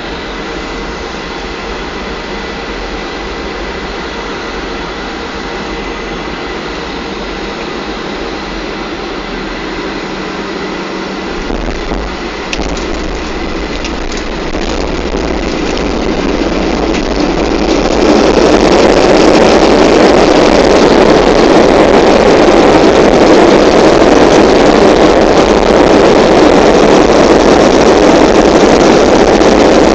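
Boeing 737-500's CFM56 jet engines during landing. Steady engine and airflow noise with a brief knock about twelve seconds in. At about eighteen seconds it turns suddenly much louder and stays loud, as the engines spool up into reverse thrust after touchdown.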